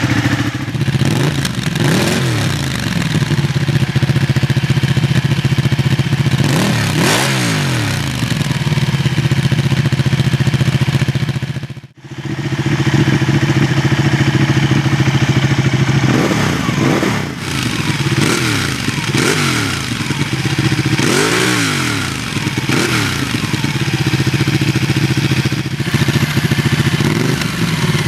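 Ducati 1199 Panigale's 1198 cc Superquadro V-twin idling and blipped through its exhaust again and again, each rev rising and falling in pitch, with a brief drop-out about twelve seconds in.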